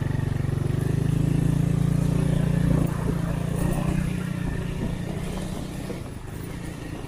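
Honda Win 100's single-cylinder four-stroke engine running steadily as the motorcycle rides over loose sand. It gets gradually quieter after about three seconds.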